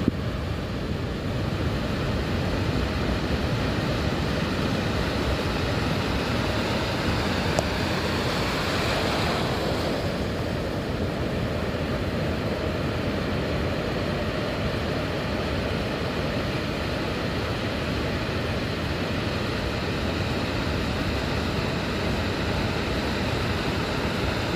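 Sea wind buffeting the microphone over the wash of surf, a steady rumbling noise; about eight seconds in a louder hiss swells for a couple of seconds, like a wave breaking.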